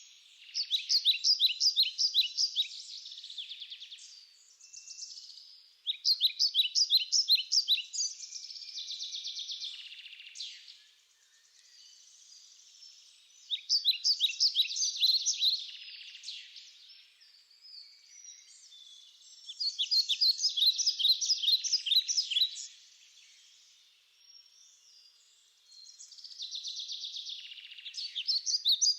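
A songbird singing: a phrase of rapid, high, repeated notes lasting two to three seconds, given five times about six seconds apart.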